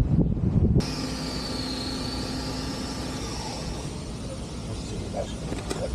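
Brief low rumbling knocks, then an abrupt cut to a steady outdoor background hum of vehicle noise, like traffic.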